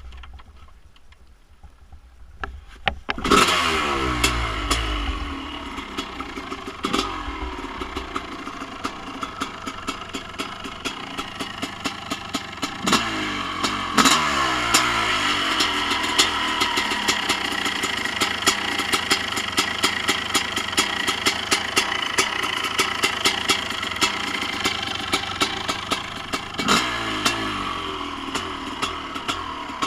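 Kawasaki KX500 500cc single-cylinder two-stroke engine with an FMF Gnarly expansion pipe, catching about three seconds in and then idling with an uneven, crackling beat. Several sharp throttle blips, each with the revs falling quickly back to idle, with two close together near the middle.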